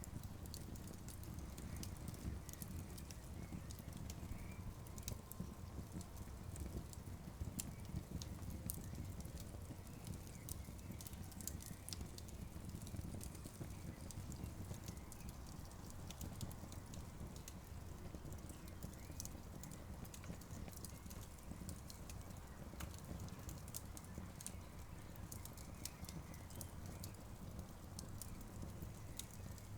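Campfire burning with irregular sharp crackles and pops over a low, steady rumble.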